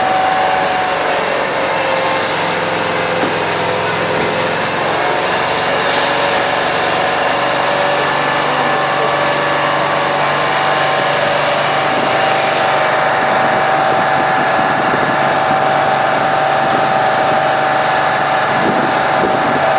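Vehicle engines running steadily under loud, dense noise, with a steady high whine and a lower hum that changes pitch a few seconds in.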